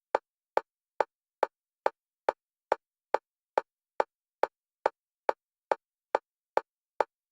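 Metronome click track for EMDR bilateral stimulation, the clicks alternating between left and right stereo channels. Short, sharp, identical clicks repeat evenly, a little over two a second, with silence between them.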